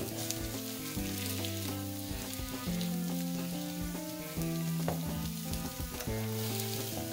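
A potato-and-egg omelette frying in olive oil in a nonstick pan, sizzling steadily, with a few short scrapes of a plastic spatula against the pan's edge. Background music with slow held chords plays under it.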